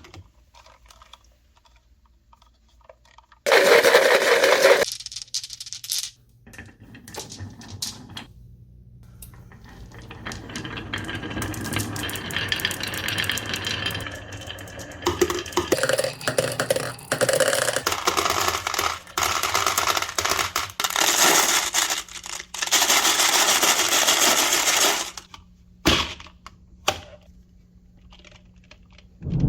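Marbles rolling along plastic rain-gutter and wooden-rail track, a steady rolling rumble broken by many sharp clicks and knocks. The rolling comes in runs: a loud burst early on, a long busy stretch through the middle, then quiet with a few single knocks near the end.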